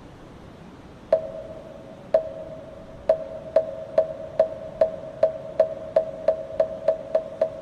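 Moktak, the Korean Buddhist wooden fish, struck with its mallet. Slow single knocks begin about a second in and speed up steadily to about three a second by the end, each knock ringing briefly at the same pitch.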